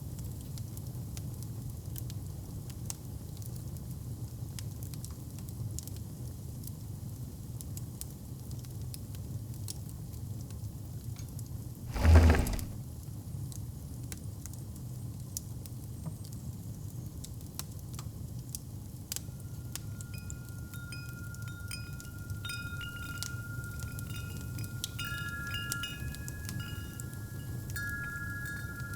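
Fireplace burning with a steady low rumble and scattered crackles and pops, a single dull thump about twelve seconds in. Wind chimes start ringing about two-thirds of the way through and keep on to the end.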